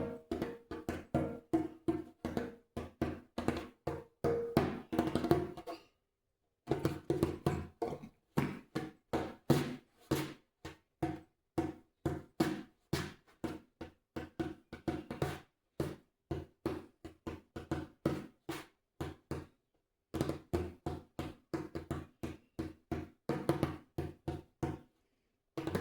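Djembe played with one hand: quick, uneven runs of hand strikes on the drumhead, several a second. The playing stops briefly about six seconds in and again near twenty seconds.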